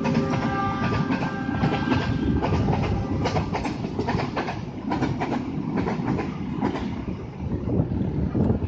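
Long freight train of empty flat wagons rolling past, a steady rumble with the wheels clicking over the rail joints. A faint steady whine fades out in the first couple of seconds.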